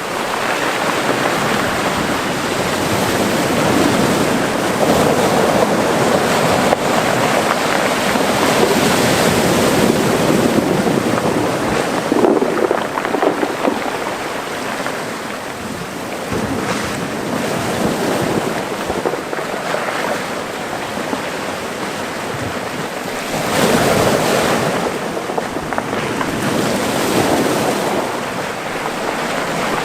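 Small Mediterranean waves washing into a rocky cove, the surf swelling and easing in slow surges, with some wind on the microphone.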